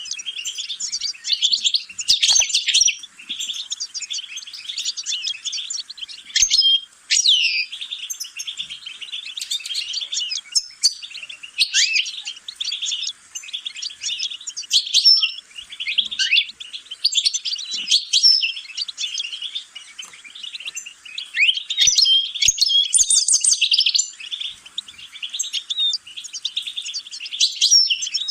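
A songbird singing a long, fast twittering song of rapid chirps, trills and short rising and falling notes, with only brief pauses.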